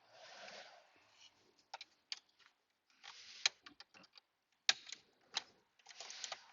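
Hand tools and parts being worked under a car's dashboard: scattered sharp clicks and rattles, half a dozen louder ones, with rustling and scraping between.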